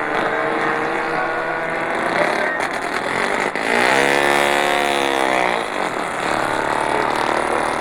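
Motorcycle engine running, revved up and back down once in the middle.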